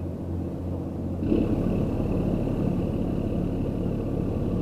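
A motor engine running steadily nearby; a little over a second in its note changes and it gets louder, with a thin high whine added.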